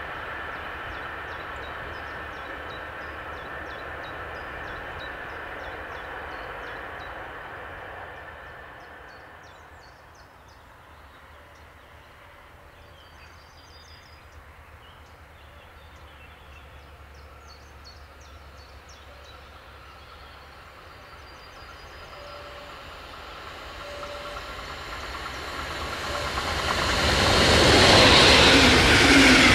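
Electric train on a main line fading away with a steady hum and whine. After a quieter lull the next train approaches, growing louder from about two-thirds of the way in, and rushes past loudly near the end.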